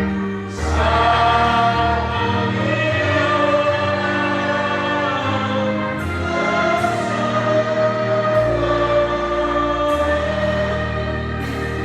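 A choir singing a slow hymn in several voices over sustained keyboard chords and held bass notes.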